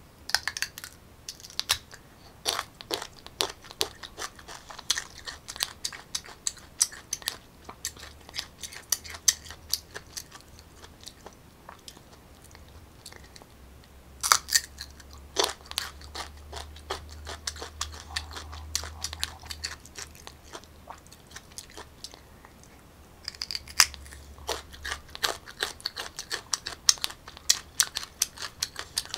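Crisp bites into unripe green mango and crunchy chewing close to the microphone. Fresh bites land about half a second in, at about fourteen seconds and at about twenty-three seconds, each followed by a run of crunching chews.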